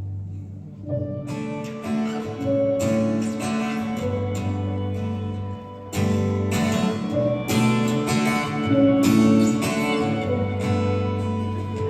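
Live acoustic instrumental passage with no vocals: a guitar strums chords over a held low note. The chords come in about a second in.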